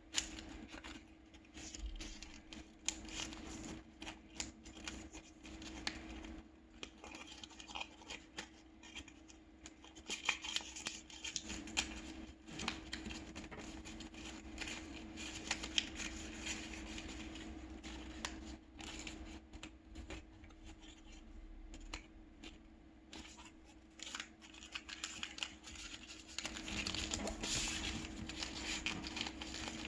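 A sheet of paper being folded and creased by hand, with irregular rustling and short crackling strokes that come in busier stretches.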